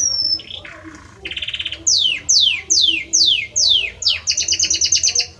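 Male Belgian canary singing: a short whistle, a fast trill, then six sweeping notes falling in pitch about two a second, ending in a rapid pulsing trill that stops just before the end. It is song aimed at his female.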